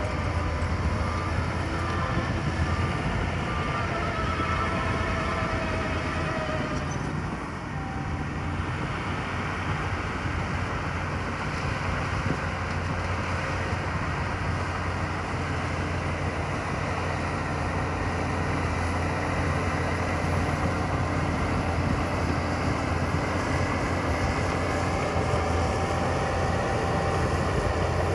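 Heavy earth-moving machinery engines running steadily, with faint whining tones over the first several seconds and a brief dip in level about seven seconds in.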